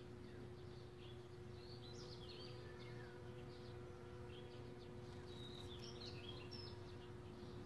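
Faint chirps and short calls of small birds, scattered throughout, over a steady unchanging low hum.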